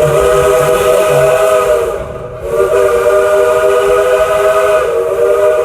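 Steam locomotive's chime whistle sounding a chord in two blasts, a short one and then a longer one starting about two and a half seconds in.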